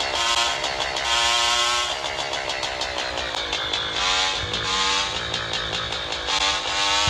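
Motorcycle engine running on the road, its pitch rising several times as it accelerates.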